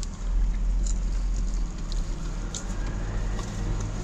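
Chewing on a sauced chicken wing, with faint wet clicks and smacks, over a low steady rumble inside a car.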